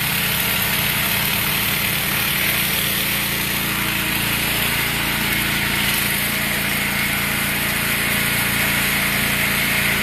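Gas-engine pressure washer running steadily, with a dense steady hiss over the engine's hum.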